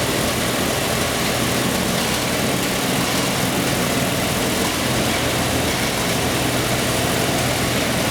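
4.6-litre Jeep stroker straight-six running at a steady speed on an engine dyno, a loud even engine note with a dense hiss over it.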